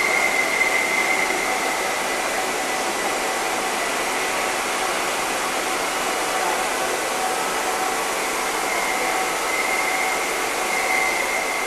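Steady hangar background noise: a constant hiss with a faint high whine that fades in and out.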